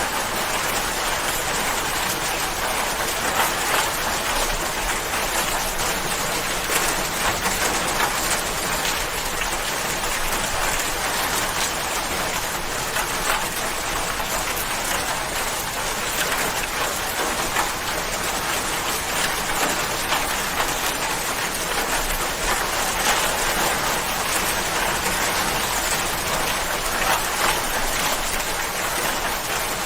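Steady rain falling, an even hiss with many fine drop patters on a surface.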